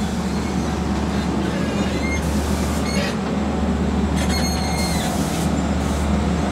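Diesel passenger train rolling slowly into the station to stop, its engine giving a steady low drone, with short high-pitched wheel squeals about two, three and four seconds in.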